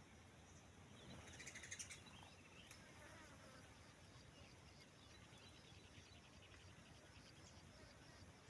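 Faint bird chirps, with a quick burst of rapid high chirping and trills about a second in, the loudest part, then scattered soft chirps over a low background hiss.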